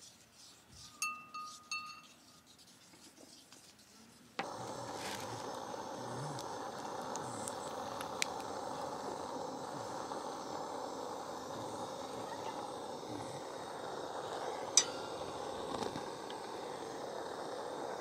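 A couple of light ringing clinks about a second in. Then, from about four seconds in, the steady hiss of a portable cassette gas stove with a frying pan cooking on it, broken by a few sharp ticks, the loudest near the end.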